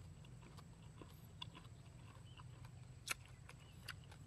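Faint crunchy chewing of a mouthful of sour green fruit: a scatter of soft clicks, the sharpest about three seconds in, over a low steady hum.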